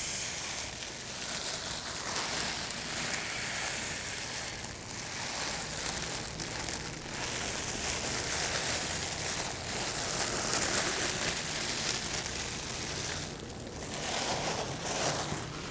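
A bonfire burning with a steady, dense crackle.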